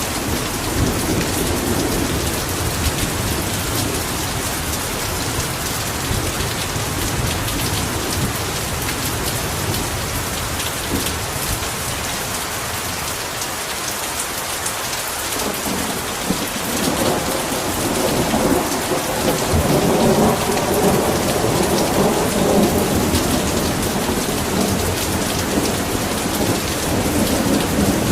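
Heavy rain falling steadily, with thunder rumbling low under it: the rumble fades out about halfway through and rolls in again a few seconds later.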